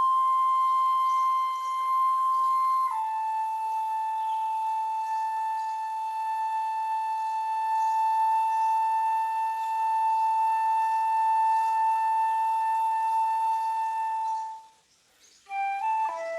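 Flute playing a slow melody. One note is held, drops a step about three seconds in, and that lower note is held for some twelve seconds. After a brief break, a quicker phrase of new notes starts near the end.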